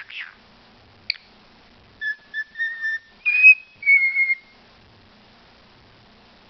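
A pet talking bird whistling. A short chirp and a click come first, then a string of short clear whistled notes, then two longer, louder whistles that each dip slightly in pitch.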